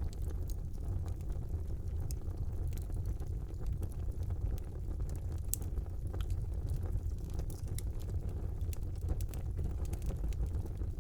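Wood fire burning in a brick fireplace: a steady low rumble of the flames with scattered sharp crackles and pops.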